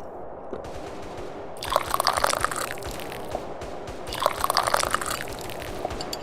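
Tea being slurped from a cup in two loud sips, about two and a half seconds apart, over a steady low hiss.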